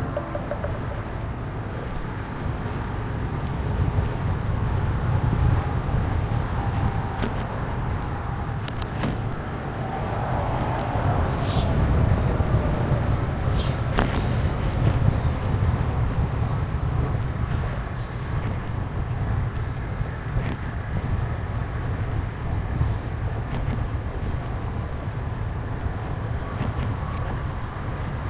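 Wind buffeting the microphone of a DJI Action 2 camera as a hybrid bicycle rolls along, a steady low rumble mixed with tyre and road noise. A few sharp ticks are scattered through it.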